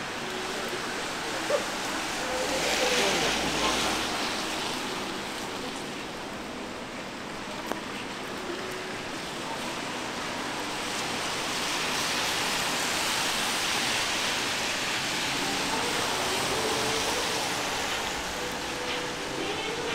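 Rainy city-street ambience: a steady hiss of rain and wet pavement that swells twice, with a couple of sharp clicks.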